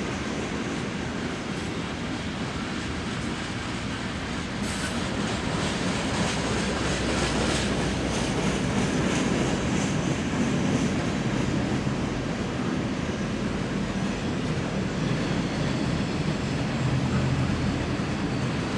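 Railroad cars rolling past on the rails: a steady rumble with wheel clatter, and a brief high wheel squeal about five seconds in.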